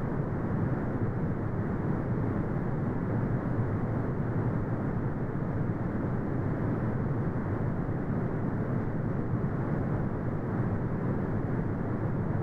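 Continuous brown noise: a steady, deep rumbling hiss with most of its energy in the low end and little above the upper mids, unchanging throughout.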